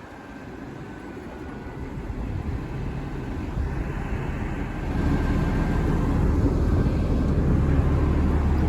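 Burrtec garbage truck's engine revving up, rising in level over the first few seconds and then held at high revs with a steady low drone from about halfway through.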